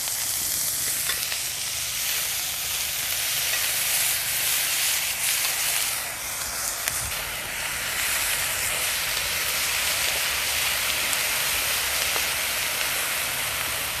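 Chopped onion sizzling steadily in olive oil in a pan, caramelizing with a little brown sugar.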